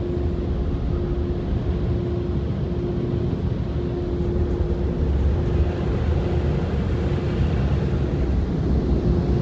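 Car cabin noise while driving: a steady low rumble of engine and tyres, with a steady hum running through it.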